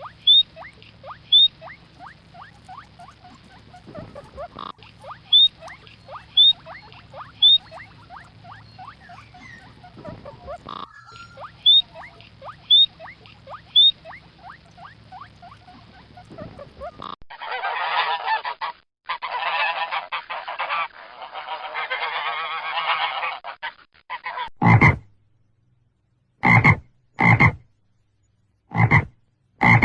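A run of animal calls. First, many short rapid calls repeat several times a second, with louder high chirps every second or so. About 17 seconds in, a dense chorus of overlapping calls takes over. From about 24 seconds, loud separate calls come roughly once a second.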